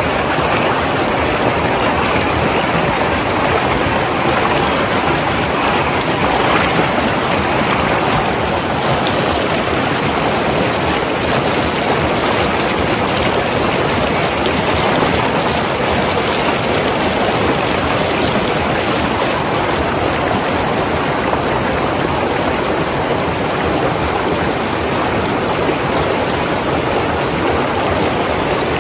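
Mountain river flowing and tumbling over rocks: a steady, continuous rush of water.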